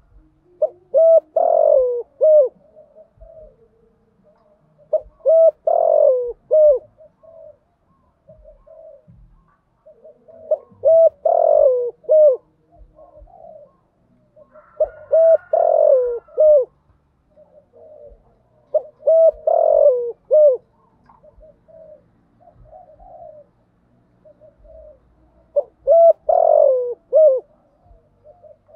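Spotted dove cooing: six loud phrases of a few hooting notes each, about every four to six seconds, with softer coos between them.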